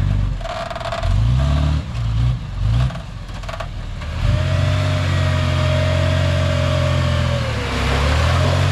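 Heavy diesel engine of earthmoving machinery revving up and down a few times, then running steadily under load with a whining tone above the engine note.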